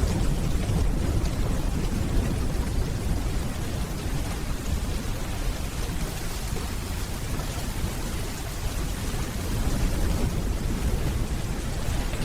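Steady rainfall with a low rumble of distant rolling thunder underneath, swelling slightly near the end.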